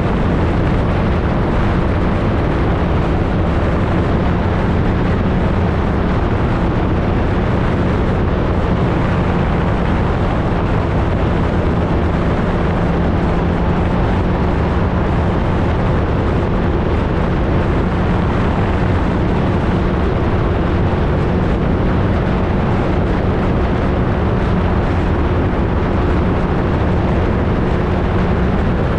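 Flightstar II ultralight's engine and propeller running at a steady, unchanging speed, mixed with heavy wind noise on the aircraft-mounted camera.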